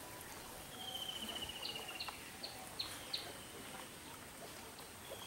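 Faint outdoor ambience with a bird calling: one rapid trill about a second and a half long that falls slightly in pitch, followed by five short high chirps. The trill starts again near the end.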